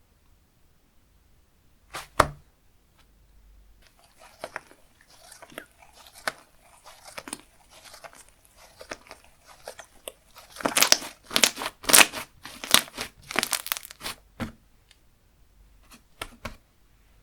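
Slime being handled: a sharp double click about two seconds in, then soft crackling from about four seconds, becoming a run of louder crackling, tearing sounds as the slime is stretched and pulled apart, easing off near the end.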